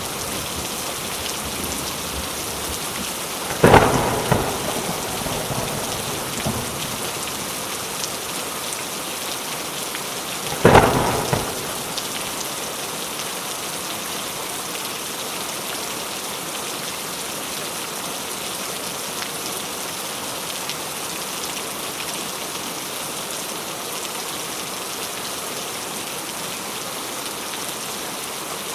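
Steady rain falling in an even hiss, with two sharp thunderclaps, about four and eleven seconds in, each dying away quickly.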